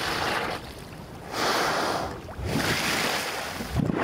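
Sea water washing and lapping around bowhead whales at the surface, coming in three swells with quieter gaps between.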